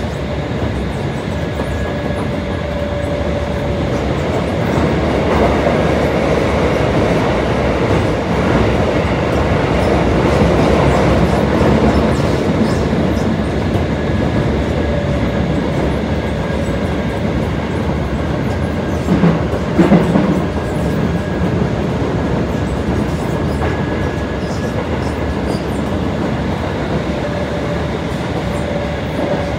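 Keisei 3400 series train running through a subway tunnel, heard inside the passenger car: a steady rumble of wheels on rail with a faint whine from the traction motors coming and going. A brief clatter of wheels over rail joints comes about twenty seconds in.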